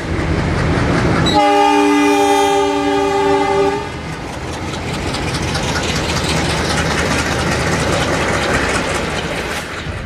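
A train horn blows one long chord of several notes, starting about a second in and lasting about two and a half seconds, over the rushing noise of a fast train. After the horn stops, the rush and rapid wheel clatter carry on.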